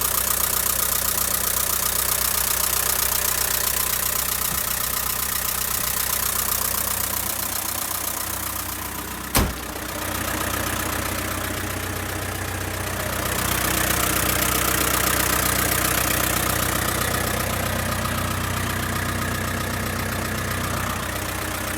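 Toyota Dyna truck's engine idling steadily, with one sharp knock about nine seconds in.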